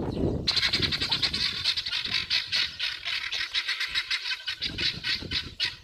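Birds chirping in a fast, dense, steady chatter that starts suddenly about half a second in.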